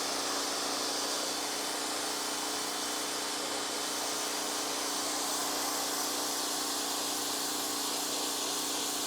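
Pressure washer running steadily: a constant motor hum under the hiss of the water spray.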